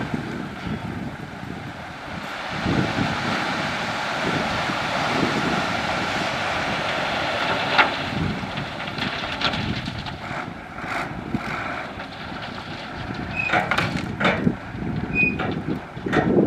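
Heavy construction machinery running on a gravel road site: steady engine noise with scattered knocks and clatter in the second half and a couple of brief high squeaks, with wind on the microphone.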